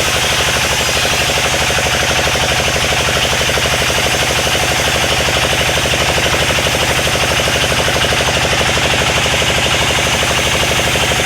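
Sawmill machinery running steadily, with a fast even pulse like an engine and a hiss of saw noise over it, unchanged throughout.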